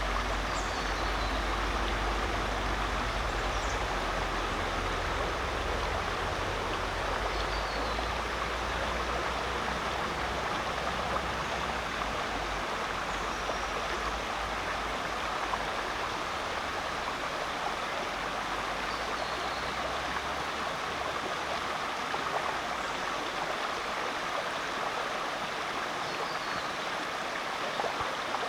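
Mudgeeraba Creek flowing steadily over rocks, an even rush of water. A low rumble underneath fades out about twenty seconds in, and faint short high chirps sound now and then.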